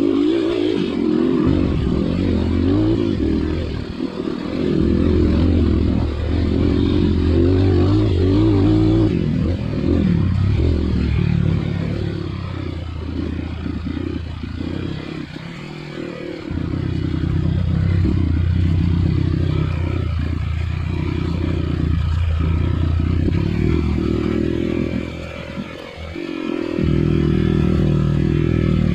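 Dirt bike engine revving up and easing off repeatedly under changing throttle. It drops back several times, the longest lull about halfway through.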